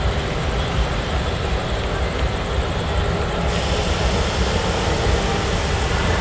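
Diesel-electric locomotive-hauled passenger train, a steady low rumble of engine and rolling stock.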